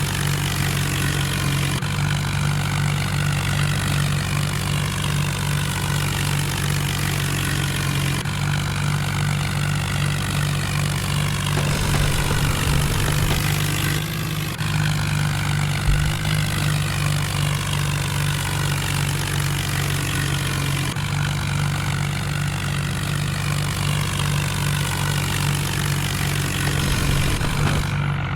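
Tractor diesel engine running steadily with a strong low drone, broken by a single short knock about halfway through.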